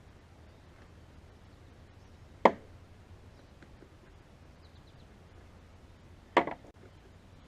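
Two sharp knocks of hard objects being handled, about four seconds apart, the second followed by a brief rattle.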